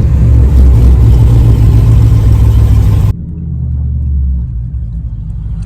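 A car's straight-piped exhaust with an X-pipe, running loud as a deep rumble. It drops off suddenly about three seconds in to a quieter rumble.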